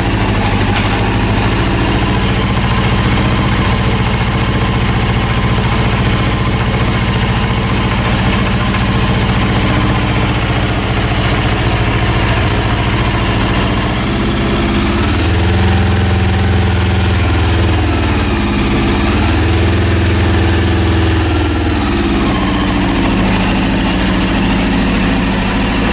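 Rebuilt Honda CB400 four-cylinder engine idling, with a mechanical noise, and twice raised briefly in revs before settling back to idle. The owner puts the mechanical sound down to the too-low idle speed, which he thinks is caused by a faulty carburetor set rather than the engine itself.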